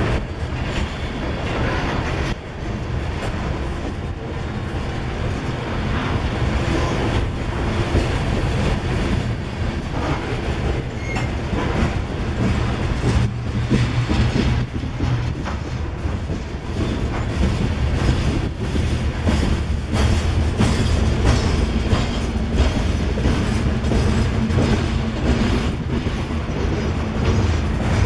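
Loaded freight train climbing a mountain grade: steady low diesel locomotive rumble, with the cars' steel wheels clicking over rail joints and squealing now and then.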